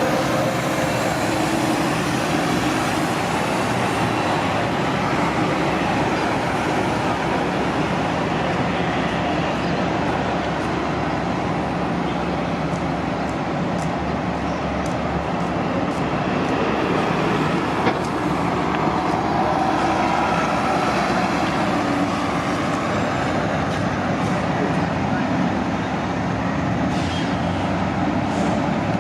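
City transit buses idling and moving through a busy bus terminal: a steady, continuous rumble of bus engines and traffic.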